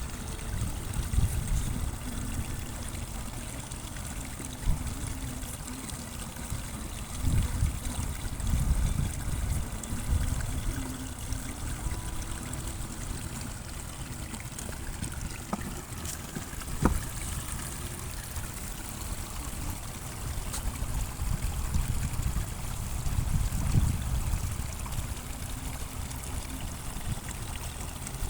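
Running water trickling steadily, with irregular low rumbling surges every few seconds and a couple of sharp clicks.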